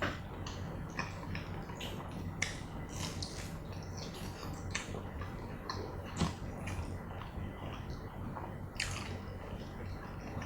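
Close-miked eating: spicy fried chicken breast with cheese sauce being bitten and chewed, with irregular crisp crackles and wet mouth clicks over a low steady hum.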